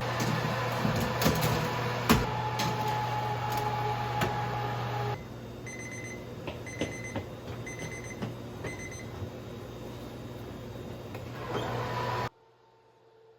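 Electronic beeping from a kitchen appliance or timer: a run of short, evenly spaced beeps over a steady machine hum. Before the beeps, a louder hum with clicks and light clatter.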